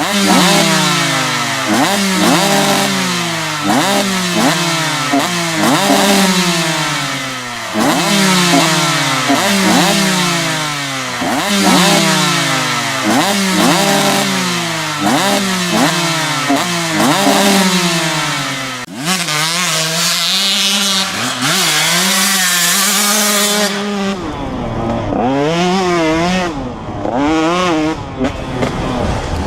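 Dirt bike engine sound, revving up and dropping back over and over as if shifting through gears, then blipping the throttle up and down more unevenly in the last part.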